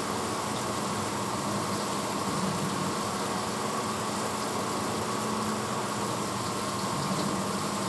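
1986 Hotpoint Potwasher dishwasher running mid-cycle: a steady motor hum under an even rushing noise.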